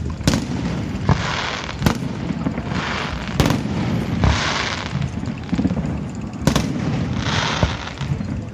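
Fireworks display: aerial shells bursting with four sharp bangs, the last after a longer gap. Between the bangs come short bursts of crackling hiss, over a low rumble.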